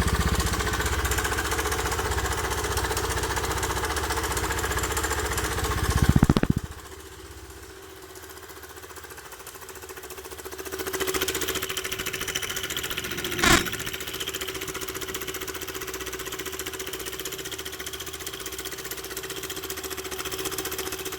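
Kymco K-XCT 125 scooter's single-cylinder engine running with a rattling noise that the owner calls strange. The sound is louder for the first six seconds, drops off sharply, then comes back at a lower level with a steady hum; a single sharp click about halfway through.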